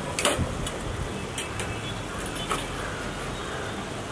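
Chopped peppers, onions and butter sizzling in a large frying pan, with a few sharp pops and crackles.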